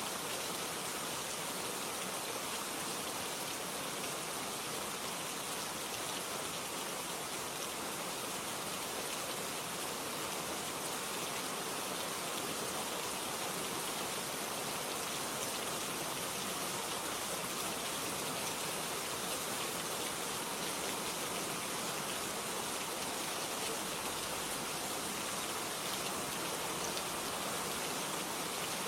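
Steady, even rain falling, with no single drops or thunder standing out.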